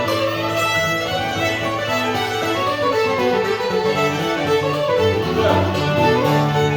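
Old-time string band playing a fiddle tune, the fiddle leading over moving low bass notes.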